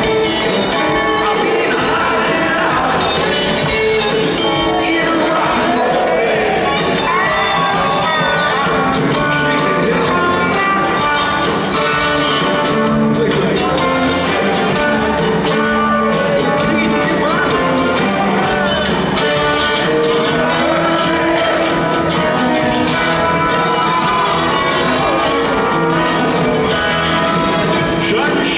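Live rock band playing an upbeat song in a large hall, with singing over electric guitar, bass and drums.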